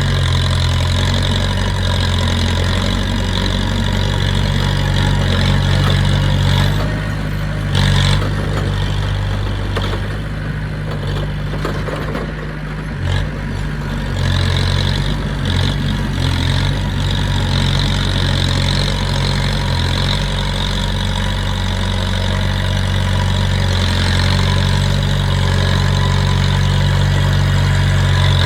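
Heavy diesel engine running steadily, with a short knock about eight seconds in.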